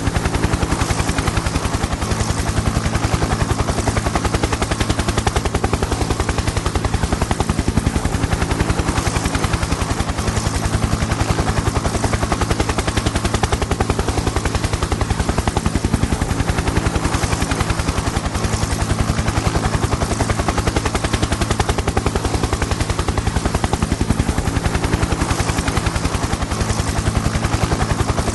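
Helicopter in flight: rapid, steady chop of the rotor blades over a steady low drone, unchanging throughout.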